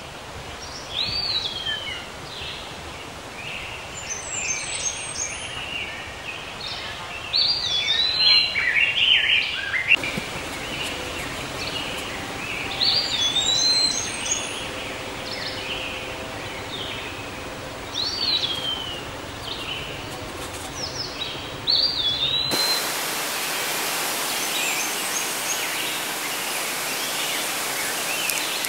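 Wild birds calling: the same short whistled call, sweeping up and then curving down, comes again every few seconds, mixed with a few quicker chirps, over outdoor background noise. The background changes abruptly about ten seconds in, and near the end a steadier hiss comes up.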